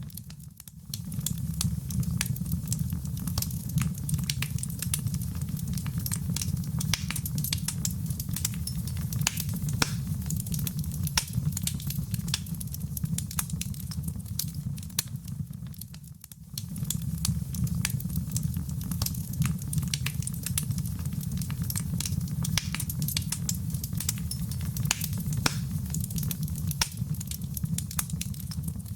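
Wood fire in a fireplace crackling: many sharp pops and snaps over a steady low rumble of the flames. The sound dips briefly twice, just after the start and about halfway through.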